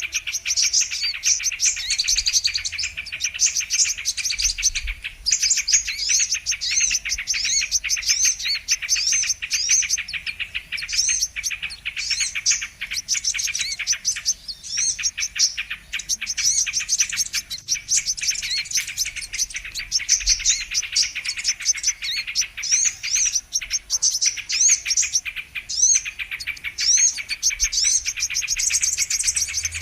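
Brown-throated sunbird (kolibri kelapa) song: a dense, unbroken stream of rapid high chirps and twittering trills.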